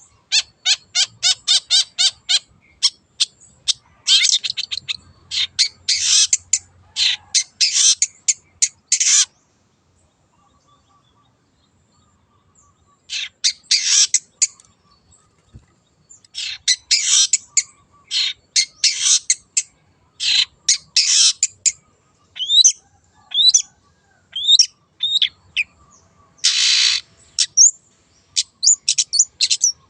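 Wild long-tailed shrike (cendet) in full song: fast runs of sharp, clipped chirps mixed with harsh rasping bursts, broken by a pause of about three seconds a third of the way in.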